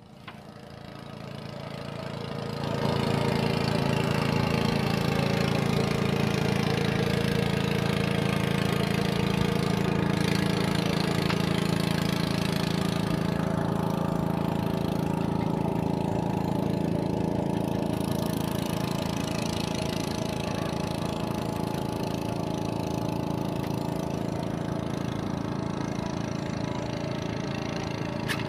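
A small engine running steadily, growing louder over the first three seconds and then holding an even drone.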